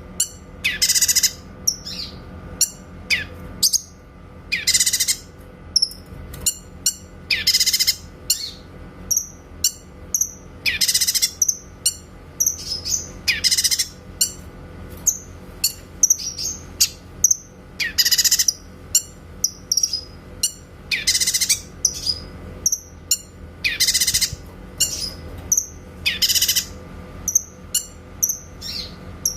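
Cucak kinoy bulbul singing in clear, loud, sharp bursts about every two to three seconds, with quick chirps and short rapid runs of notes between them, over a faint steady low hum.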